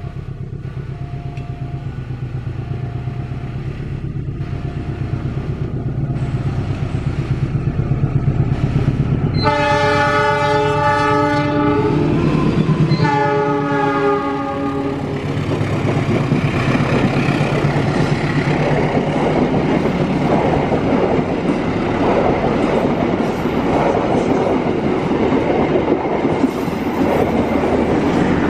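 KAI CC206 diesel locomotive approaching and going past, its engine rumble growing louder, with a level-crossing warning bell ringing over and over in the first few seconds. About ten seconds in, the locomotive sounds two long chords on its horn. The passenger coaches then rattle past, wheels clattering over the rail joints.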